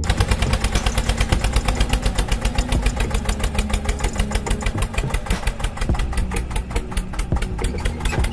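Small homemade motor-driven mechanism of a DIY miniature tractor running steadily, giving a rapid, even knocking of about eight beats a second, like a little engine idling.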